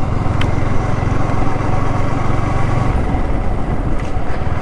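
Yamaha R15 V3's 155 cc single-cylinder engine running at steady low revs, with road and wind noise around it.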